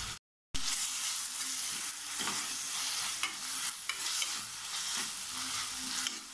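Chopped tomatoes, onions and green chillies sizzling in hot oil in a coated kadai while a steel ladle stirs and scrapes them, with light clicks of the ladle against the pan, as the tomatoes fry down for a kurma masala. The sound cuts out for a moment just after the start.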